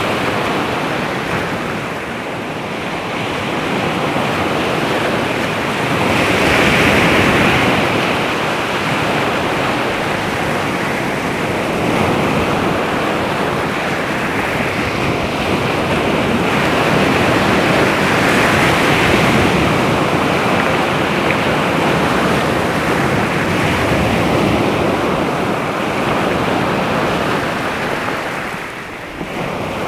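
Baltic Sea waves washing onto the shore: a steady rushing surf that swells and ebbs, with two louder surges about eleven seconds apart and a brief lull near the end.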